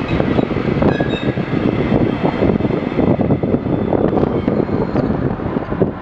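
Container wagons of a freight train rolling past close by: a steady rumble of wheels on rail, with wind buffeting the microphone.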